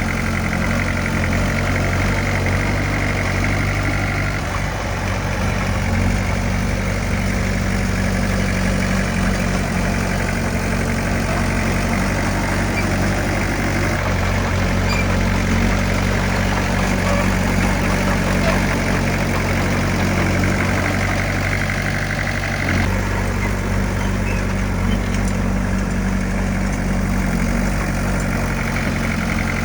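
A bulldozer's heavy diesel engine running steadily, its sound changing a few times, at about four, fourteen and twenty-three seconds in.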